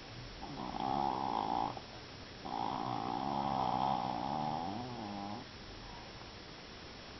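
Japanese Chin dog snoring in its sleep: two snores, a short one about half a second in and a longer one of about three seconds that wavers in pitch as it ends.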